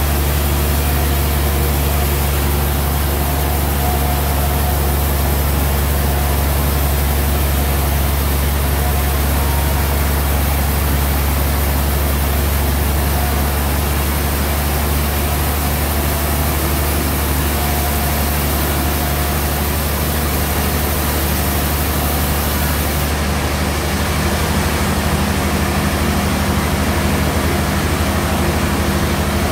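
Sawmill bandsaw running steadily: a strong low motor hum with hiss over it, the tone shifting slightly about three-quarters of the way through.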